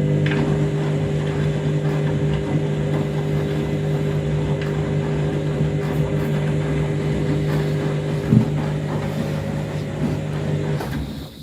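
Washing machine drum turning on a wash stroke: a steady motor hum over the swish of sudsy water and laundry, with a single louder knock about eight seconds in, then the motor stops just before the end. The drum is fully overloaded and still full of suds.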